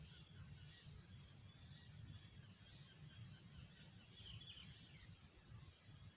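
Faint outdoor ambience: a steady high-pitched insect drone with a few faint bird chirps, three short ones about two seconds in and a little falling cluster about four seconds in.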